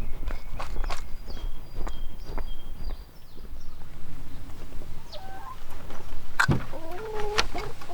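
Backyard poultry calling: short high peeps in the first few seconds, then a sharp knock and a louder, wavering squawk about six and a half seconds in.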